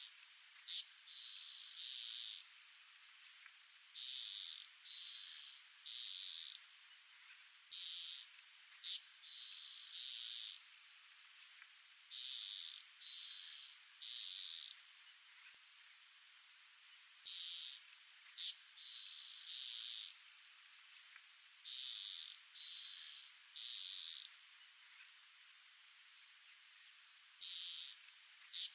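Crickets calling: a steady high thin trill with louder buzzing pulses over it that come in clusters of two or three, every four to five seconds.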